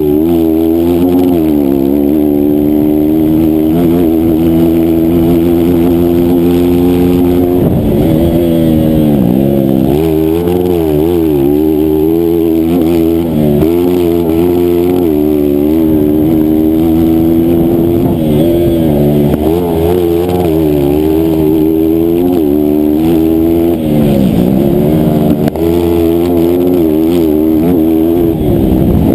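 Engine of a 160cc race motorcycle revving hard under racing load, its pitch climbing and dropping over and over as it runs through the gears, with several deeper drops.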